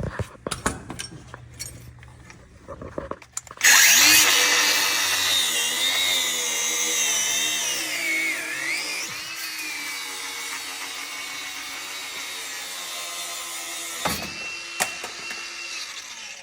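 A power tool working its way through a seized steel suspension fastener. There are a few seconds of scattered clicks and knocks first. The tool then starts suddenly and runs hard for about ten seconds, its pitch wavering under load. It then drops to a lighter, steadier tone and winds down near the end.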